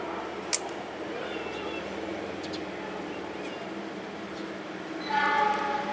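Diesel locomotive of a passenger train running steadily as it approaches through a station, a low rumble under a steady noise. A single sharp click comes about half a second in, and a short, louder pitched tone sounds near the end.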